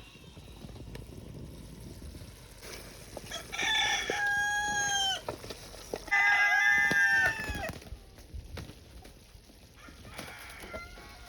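Rooster crowing twice, each crow a long held call that drops off at the end, about four and six seconds in, with a fainter crow near the end.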